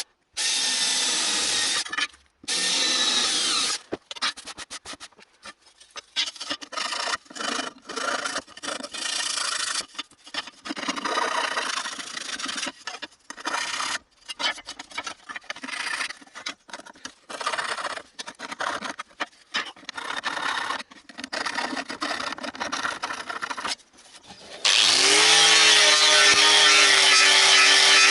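Metalwork on a car body panel: many short bursts of harsh rasping noise that start and stop. Near the end a handheld angle grinder spins up, rising in pitch, then runs steadily and loudly.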